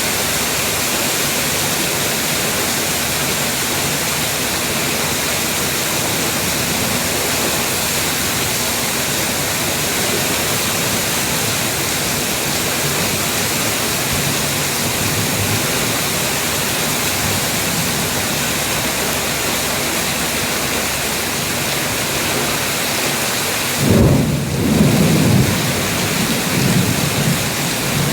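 Heavy rain falling steadily, a dense even hiss. Near the end a sudden low rumble breaks in and rolls on in waves.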